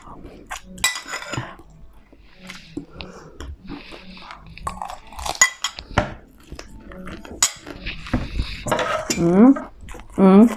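Eating utensils clinking and knocking against a plate or bowl, many short clicks throughout, with a brief vocal sound near the end.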